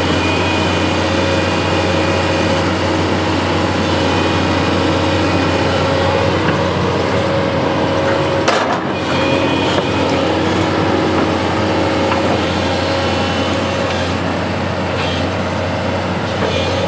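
Construction machine's engine running steadily during a test operation, with a low hum and several steady mechanical tones. One sharp knock about eight and a half seconds in.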